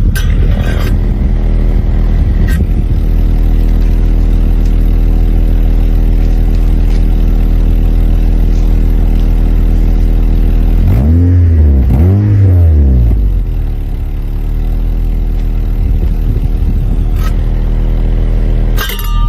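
A car's engine idling steadily through its exhaust, then two quick throttle blips past the middle, each rising and falling back to idle, with a short knock near the end.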